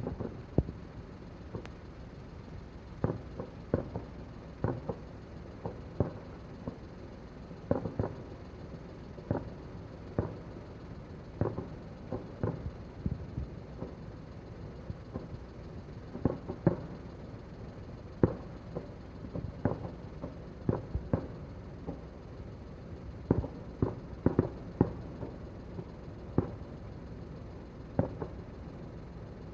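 Fireworks going off in an irregular string of dull bangs, some coming singly and some in quick clusters, over a steady low rumble of background noise.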